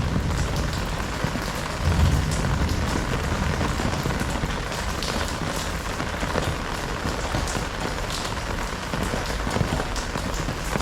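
Heavy rain falling steadily, with sharp ticks of drops striking nearby surfaces and a brief low rumble about two seconds in.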